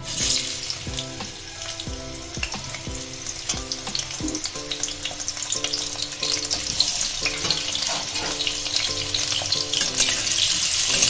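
Raw potato pieces sizzling as they fry in hot mustard oil in a kadai. The sizzle starts suddenly as the potatoes go in and grows louder toward the end, when a spatula stirs them. Soft background music plays underneath.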